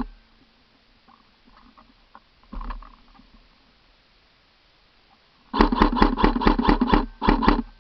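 Airsoft gun firing: one shot about two and a half seconds in, then a rapid burst of about nine shots from about five and a half seconds in, a short pause, and three more.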